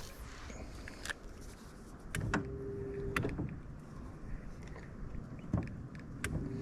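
Electric trolling motor whining in a short burst of about a second, a little over two seconds in, with sharp clicks as it is switched on and off. It is being bumped on and off by hand to hold the boat against the current.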